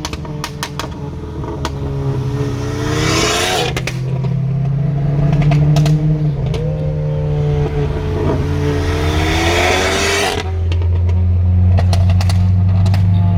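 Volkswagen Golf GTI Mk7's turbocharged four-cylinder, with a catless downpipe, muffler delete and glasspack, pulling hard: the engine note climbs, breaks at a shift about four seconds in, climbs again and drops off about ten seconds in. Sharp exhaust pops and crackles come off throttle before the pull and after it, typical of a stratified tune.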